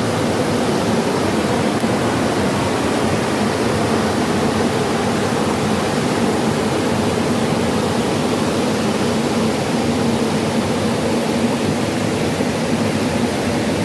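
Steady rushing of flowing stream water, an even unbroken wash of sound.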